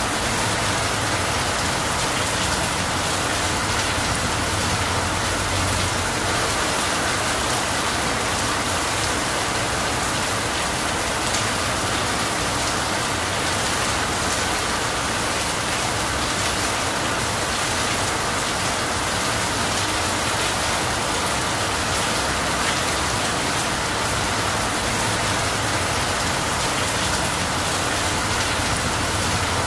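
Steady rain falling on the leaves of a dense tree.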